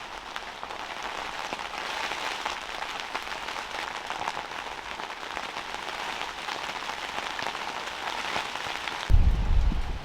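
Steady rain falling, countless drops striking a surface in a dense, even spread of fine ticks. About nine seconds in, a loud low rumble joins it.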